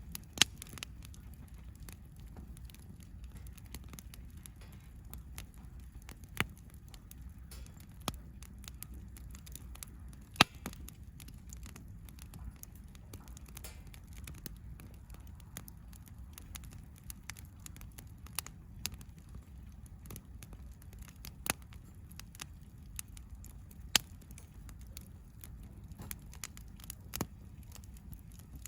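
Wood campfire burning, with a low steady rustle and sharp crackling pops every few seconds; the loudest pop comes about ten seconds in.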